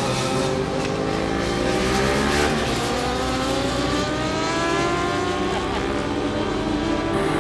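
A racing vehicle's engine accelerating hard, its pitch rising steadily for about five seconds.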